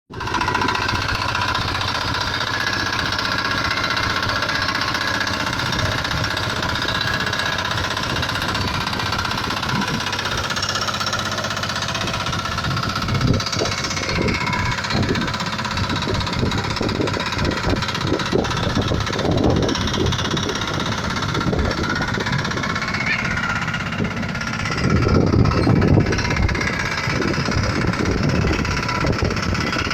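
Fieldmarshal FM88 diesel engine running in a mini tractor with a rapid, steady knocking clatter. The knocking grows stronger from about halfway and is loudest a little before the end.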